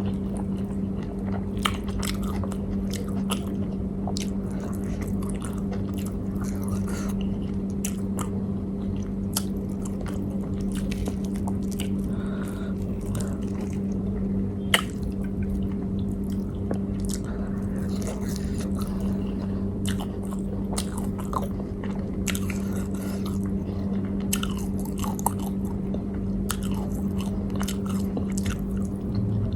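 A person chewing and biting food close to the microphone, with short crunchy bites and wet mouth clicks, over a steady low hum.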